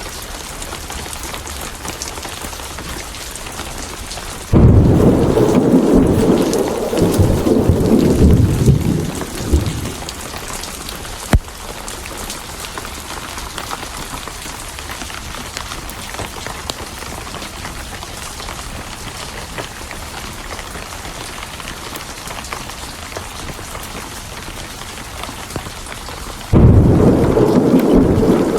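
Steady heavy rain with thunder. A loud rumble of thunder breaks in suddenly a few seconds in and rolls on for about five seconds. A single sharp crack comes a little later, and a second thunderclap starts suddenly near the end.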